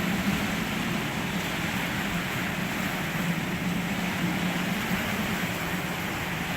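Wind and rain from a hurricane's outer band, a steady rushing noise, with a faint low hum running underneath.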